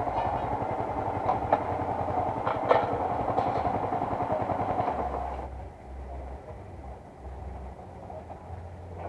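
Yamaha M-Slaz's 155 cc single-cylinder engine running at low speed as the motorcycle creeps across gravel, with a few sharp clicks. The engine sound drops away about five and a half seconds in, leaving a quieter low rumble.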